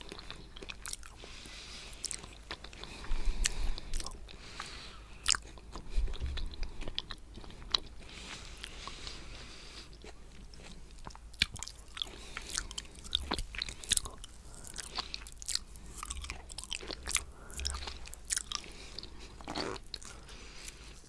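Close-miked chewing of coconut cheesecake: irregular wet mouth clicks and smacks.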